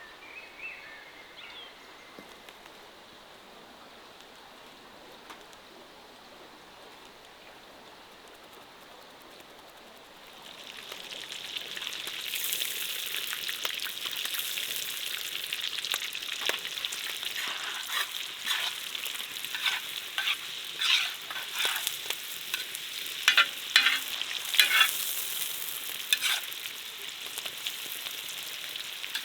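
Quiet for about ten seconds, apart from a brief chirp near the start; then food starts sizzling in hot oil in a pot over a campfire. The sizzle swells and is soon spattered with sharp spitting pops.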